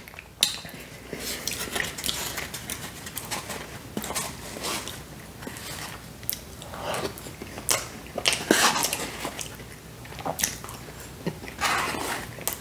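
Close-miked chewing and mouth sounds of someone eating a soft chocolate lava cake: irregular smacks and clicks.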